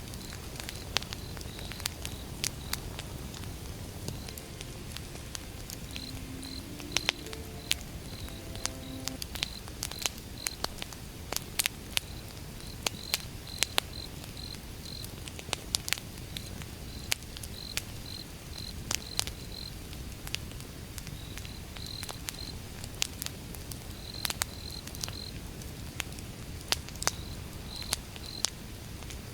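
Campfire of burning wood crackling, with many irregular sharp pops over a steady low rush of the flames. A cricket chirps throughout in short, regular groups of high chirps.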